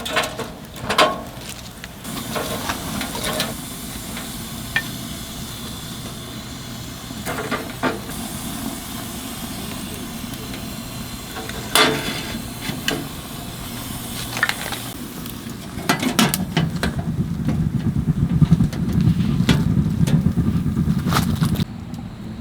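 Wood fire burning in a wood-burning stove, crackling with scattered sharp clicks and knocks. From about three-quarters of the way in it gets louder and denser, then cuts off abruptly near the end.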